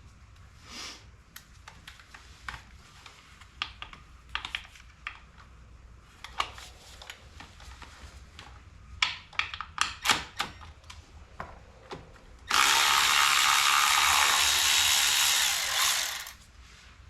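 Hand tools clicking and a ratchet working in short bursts on a bolt, then a loud steady rushing hiss lasting about four seconds that fades out at the end.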